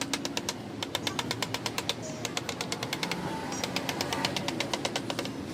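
Rapid, regular tapping, about seven sharp clicks a second, over a steady low hum.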